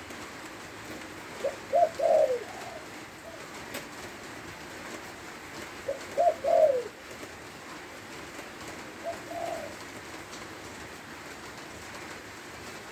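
A spotted dove cooing: three phrases about four seconds apart, each a short note followed by two or three deeper rolling coos. The third phrase is fainter.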